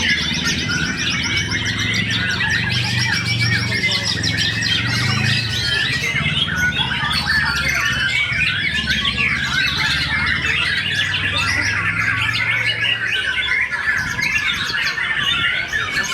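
Many songbirds singing and chattering at once in a dense, continuous chorus of chirps and trills, typical of caged birds at a songbird contest. Beneath it runs a low steady hum that fades out about thirteen seconds in.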